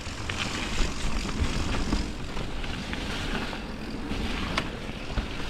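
A mountain bike rolling fast downhill on a wet trail: a steady rush of wind and tyre noise, with scattered sharp clicks and knocks from the bike.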